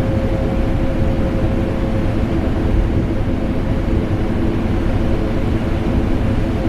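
Vacuum cleaner motor running steadily, layered with air-conditioner hum: a continuous rushing noise over a low rumble, with a faint steady whine that drops away about two seconds in and comes back near the end.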